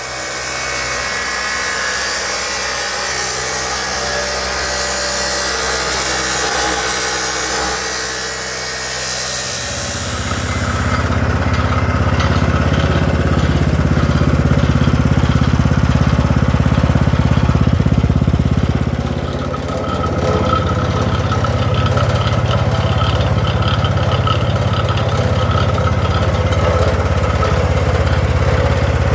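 A power tool runs for about ten seconds. Then an engine starts running steadily with a low, even hum, easing off briefly around the middle and picking up again.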